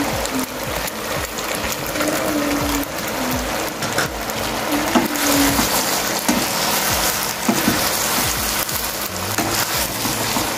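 Cooking in a pot on the stove: a steady hiss with scattered clicks and scrapes as the pasta, chicken and spices are worked in the pot, with faint music underneath.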